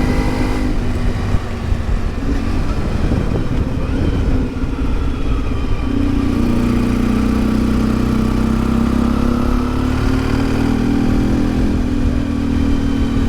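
A 1992 Yamaha XTZ 750 Super Ténéré's parallel-twin engine running under way. Its note is subdued for the first several seconds, then comes up louder and steady about six seconds in.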